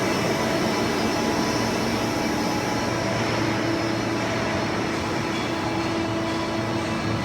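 A 1600-ton plastic pallet injection molding machine running: a steady industrial hum with several constant tones over a broad hiss. The highest hiss eases off slightly about three seconds in.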